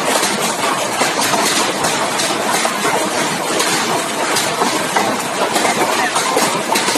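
Heavy hailstorm with rain: a dense, steady clatter of many small hailstone impacts over the hiss of the downpour.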